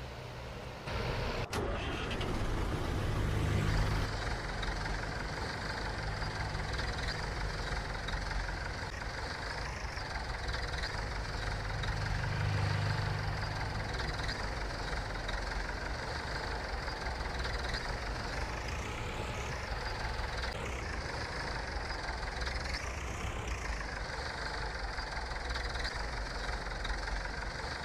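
Engine running steadily. It gets louder about a second in, and a few high sweeping sounds rise and fall between about 19 and 24 seconds in.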